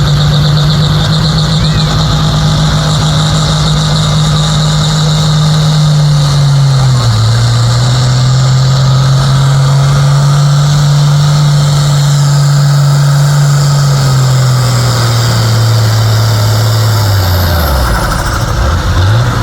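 Pulling tractor's engine at full throttle hauling the sled, with a high whine over it. The engine's pitch holds, sags about a third of the way in, recovers, then drops away steeply near the end as the run is over.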